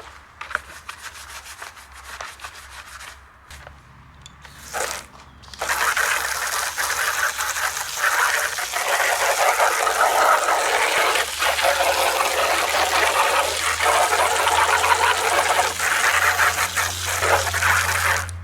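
Cleaning power steering fluid buildup off a car's plastic under tray: a few short bursts of noise, then a continuous rushing, rubbing noise from about six seconds in.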